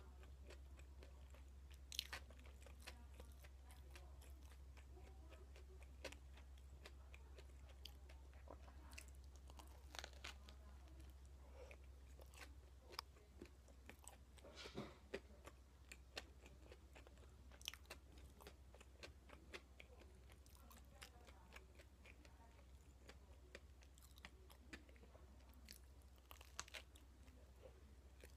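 Faint, close-up chewing and biting of toast topped with potato salad: soft, irregular crunches of the bread crust, with a few sharper crunches scattered through. A steady low hum sits underneath.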